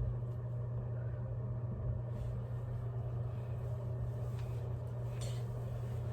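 A steady low hum, with a couple of faint brief rustles about four and five seconds in.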